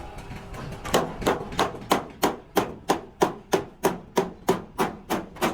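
Steady hammering: a hammer striking in an even rhythm of about three blows a second, starting about a second in.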